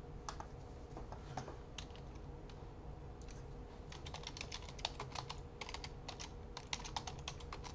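Computer keyboard typing: a run of quick, light key clicks, scattered at first and coming thick and fast from about three seconds in.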